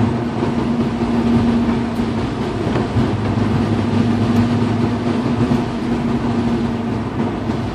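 Car driving in the rain, heard steadily: a constant engine drone with a low rumble under a hiss of tyres and rain on the wet road.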